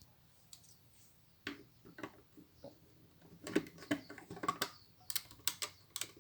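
Small plastic Lego pieces clicking and clattering as they are handled and pressed together. The clicks come irregularly, a few at first and then thick and fast from about three and a half seconds in.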